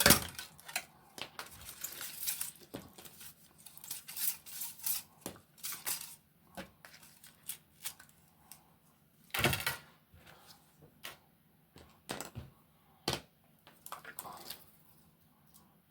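Handling noise of a self-adhesive LED light strip being fitted inside a plastic 3D-printed mask: irregular light clicks and taps with a few short rustles, the loudest about halfway through.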